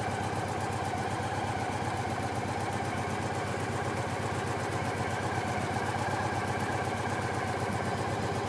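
An engine idling steadily, with an even, rapid pulse and a held hum.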